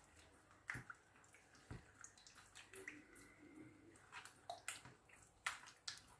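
Faint, irregular drips and small clicks of water in a cooking pot of chicken as it is handled.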